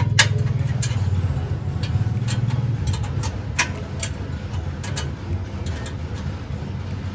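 Mitsubishi L300 pickup's diesel engine idling with a steady low throb, overlaid by a dozen or so sharp metallic clicks and taps as a turbo whistler is pushed into the exhaust tailpipe and fitted.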